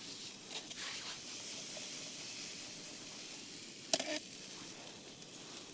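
Diced courgette sizzling in a small skillet on a Jetboil gas stove, frying steadily. A single sharp clink about four seconds in.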